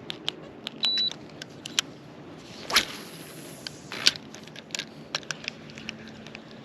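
Fishing tackle handled on a small boat: scattered clicks and taps of rod and reel, with one louder swish about three seconds in, typical of casting a spinning rod.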